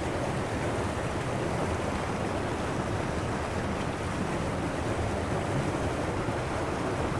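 Steady rushing wind noise buffeting the microphone outdoors, with no other distinct sound.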